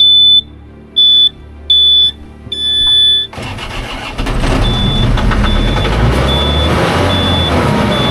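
A piece of machinery starts up: four warning beeps, the last one longer, then the engine catches and runs. Soon after, a reversing alarm beeps steadily, about three beeps every two seconds, over the engine noise.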